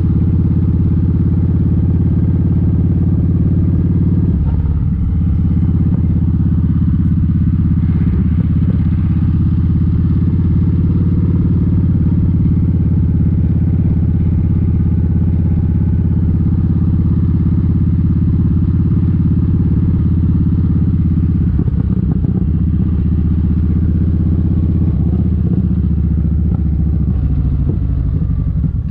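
Kawasaki Vulcan 1700 Vaquero's V-twin engine running steadily, with a brief change in tone about four seconds in and again around twenty-two seconds.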